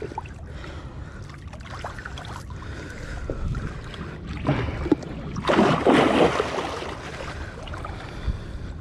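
Water sloshing and splashing as a hooked fish fights at the surface, with one louder splash about five and a half seconds in.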